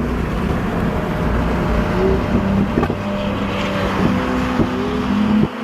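A car engine running at speed with road noise, its pitch rising and falling a few times. The low rumble drops away sharply near the end.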